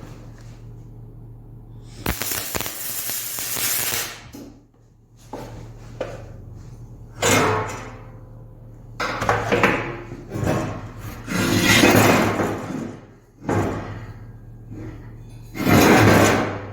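Metalwork on aluminum stands: about six short bursts of clatter and hiss, one to two seconds each, the first and highest-pitched about two seconds in, over a steady low hum.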